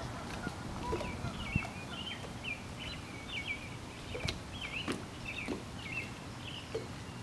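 A small bird singing a run of short, quick chirping notes over steady outdoor background noise, with a few sharp clicks in between.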